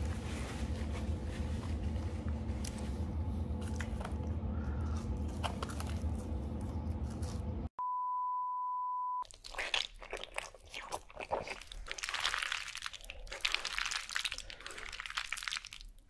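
Close-miked mouth noise of a man chewing a soft burger, over a low hum. It cuts to a steady 1 kHz test-card tone for about a second and a half, followed by wet, crackly smacking and chewing as someone eats macaroni and cheese by the handful.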